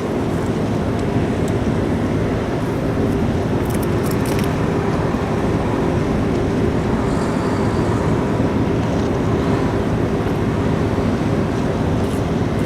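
Steady drone of a large car ferry's engines and machinery, a low hum with several steady tones over a haze of wind and water noise.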